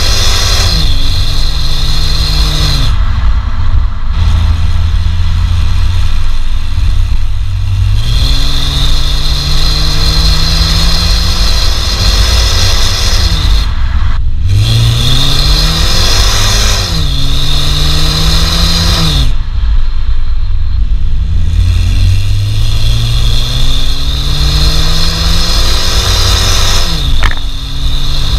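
BMW E88 120i's 2.0-litre naturally aspirated four-cylinder engine accelerating hard. Its pitch climbs through each gear and drops sharply at each upshift, about five times.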